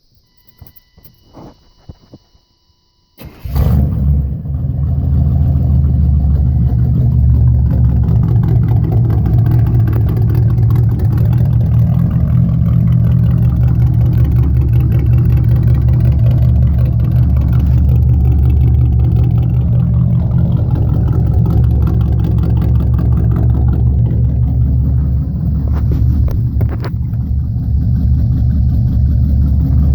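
The 5.7-litre (350) V8 of a 1993 GMC Yukon, fitted with headers and true dual straight pipes, fires up suddenly about three seconds in and then runs loud and steady with a deep exhaust note.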